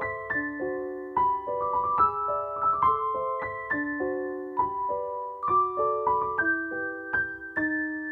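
Background piano music: a gentle melody of notes and chords struck about twice a second, each ringing and fading, with a last chord held near the end.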